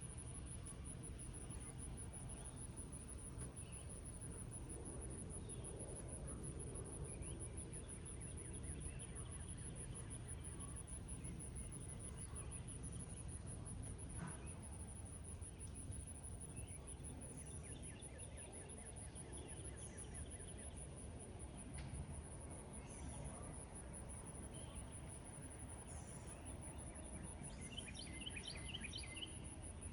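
A steady, high-pitched insect trill runs over a soft, even hiss of light rainfall in a meadow. Birds call now and then, with short sweeping notes in the second half and a quick run of repeated notes near the end.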